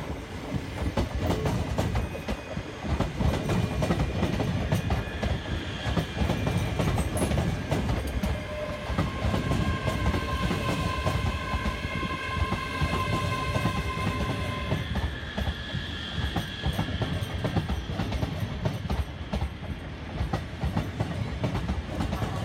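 ScotRail Class 385 electric multiple unit, two units coupled, running in along the platform: a steady rumble with the wheels clattering over rail joints and points, and a high whine of several steady tones through the middle stretch.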